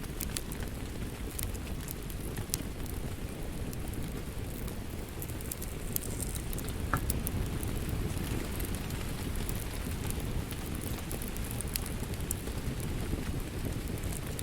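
Steady rain with a low rumble, mixed with a wood fire crackling: scattered sharp pops and snaps throughout.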